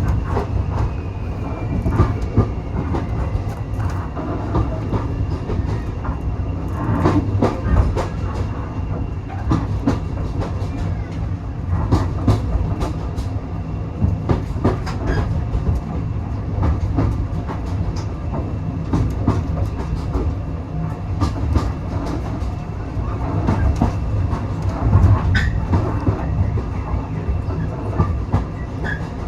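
Railway carriage heard from on board while under way: a steady low rumble with the wheels clicking irregularly over rail joints.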